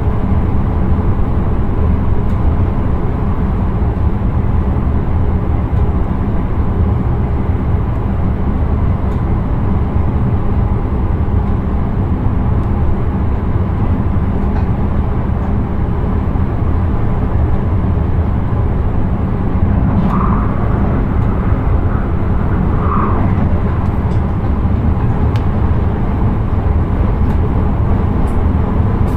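Electric intercity train running steadily at speed, a continuous low rumble of wheels on rails heard inside the driver's cab. Two brief higher sounds come about two-thirds of the way through.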